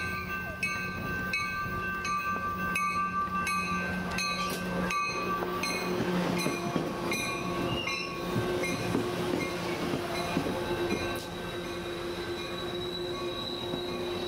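Level-crossing bells ringing about one and a half strikes a second while a Coaster commuter train pulls into the station. After about five seconds the bells fade, and the train's wheels and brakes squeal in a steady high tone as it slows alongside the platform.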